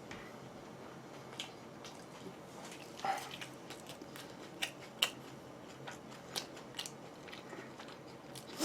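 Faint close-miked eating sounds: chewing and biting food, with scattered small clicks and crunches.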